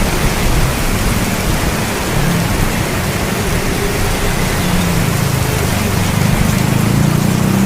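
Steady rain, an even hiss, with a low rolling rumble of thunder underneath that swells in the second half.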